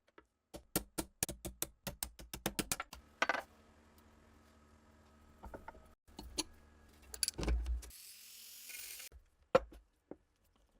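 Sharp mechanical clicks and clacks of small metal parts being handled, quick and close together at first, then sparser, with a short hiss about eight seconds in.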